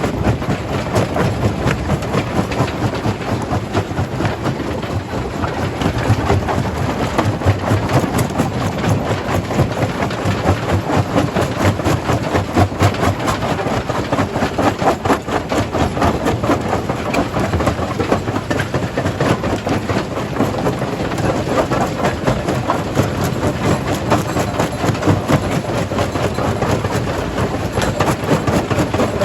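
Primary jaw crusher running and crushing stone: a continuous low rumble with a dense, unbroken clatter of rock breaking and falling.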